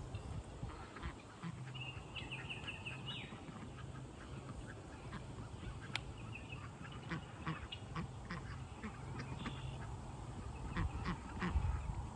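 Farm waterfowl (ducks or geese) calling, with a quick run of short high notes about two seconds in and another call near the end. Scattered short clicks in the second half, over a low steady hum.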